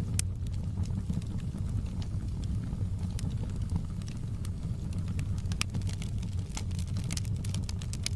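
Wood fire burning in a fireplace: a steady low rumble of flames with frequent sharp crackles and pops from the burning wood, coming thicker in the second half.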